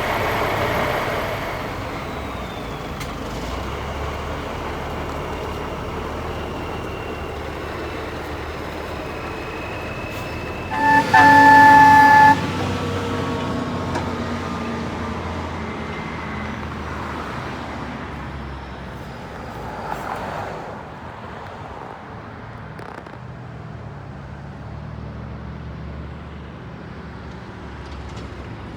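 Cummins 350 diesel engine of a 1980 International crane truck running on a road test, slowly getting quieter, with one horn blast of about a second and a half partway through.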